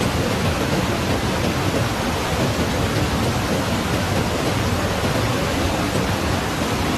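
Heavy rain: a steady, loud rushing noise with no breaks.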